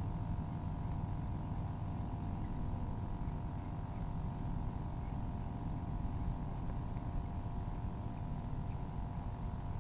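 Small boat motor running steadily: a low rumble with a steady whine on top.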